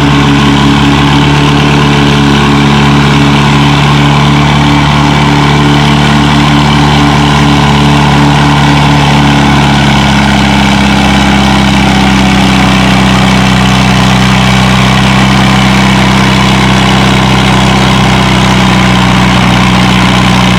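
Massey Harris 44 Special tractor engine running hard and steady under load while pulling the weight sled, with a slight shift in pitch about halfway through.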